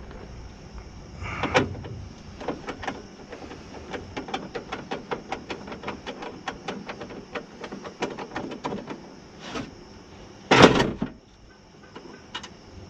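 A fast run of sharp metallic clicks, several a second, from work on the window regulator inside a car door. Near the end comes one loud clunk, which sounds like part of the regulator or track giving way.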